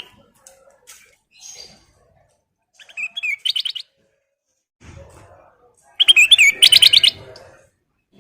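Kutilang emas, a bulbul, singing in two bursts of quick, rising and falling chirps: a short one about three seconds in and a longer, louder one about six seconds in.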